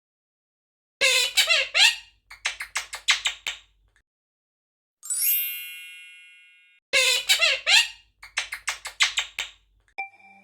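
Quaker parrot giving rapid, squeaky chirps in two bursts, with a single bell-like ding between them that rings and fades.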